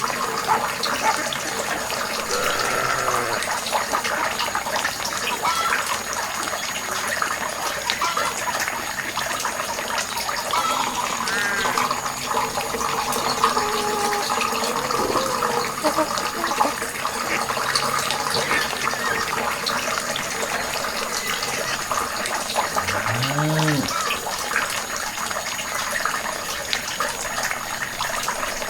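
Water running steadily, with a few brief voice-like calls over it.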